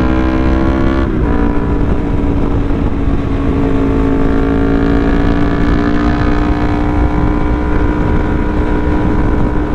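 Yamaha R3's parallel-twin engine under way: the note climbs, drops at an upshift about a second in, then holds steady at cruising speed. Wind buffets the microphone underneath.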